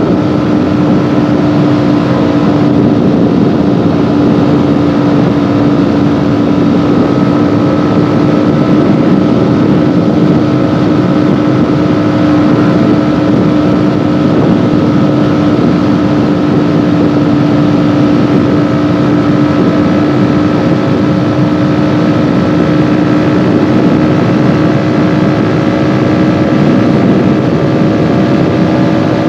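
Kawasaki Ninja 400's parallel-twin engine running at a nearly constant pitch while the bike is ridden at a steady speed, over a steady rushing noise.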